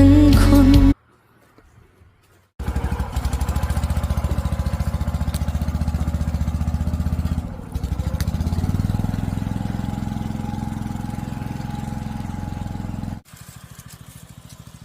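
Background music ends about a second in. After a short pause a small engine idles with a fast, even pulse. Near the end it drops to a much quieter level.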